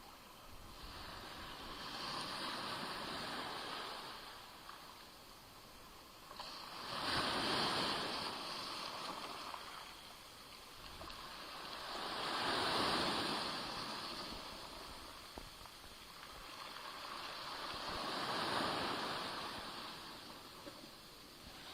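Small Black Sea waves washing onto the shore, four surges swelling and receding about every five to six seconds, the one near the middle the loudest.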